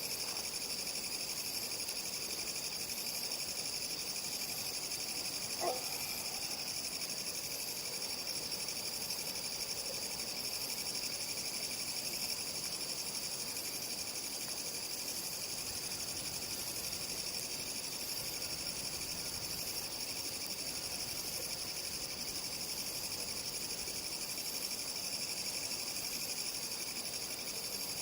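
Night chorus of crickets and other insects trilling steadily, with one brief crack about six seconds in.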